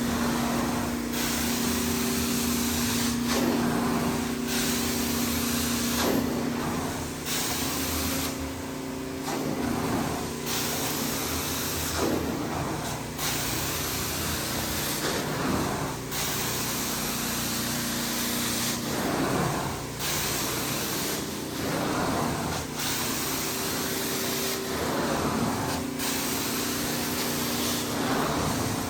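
Hot water carpet extraction machine running, its vacuum rushing and hissing through the wand over a steady motor hum. The rush breaks off and comes back every two to three seconds as the wand is stroked across the carpet.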